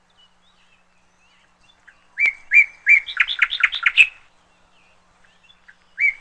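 Songbird singing one phrase about two seconds in: three clear notes, then a quick run of short falling notes, about two seconds in all.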